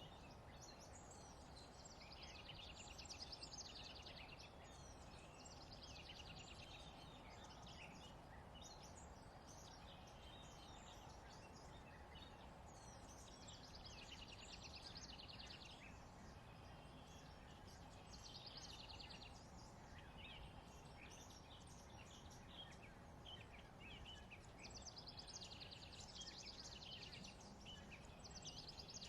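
Faint songbird singing in repeated quick trilled phrases, several seconds apart, over a steady low background hum.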